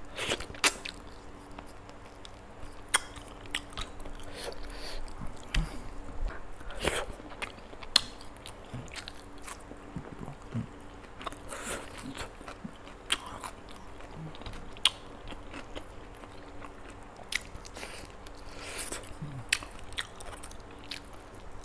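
Close-miked chewing and biting of spicy chicken pieces eaten by hand: irregular wet mouth smacks and sharp crunchy clicks, over a faint steady hum.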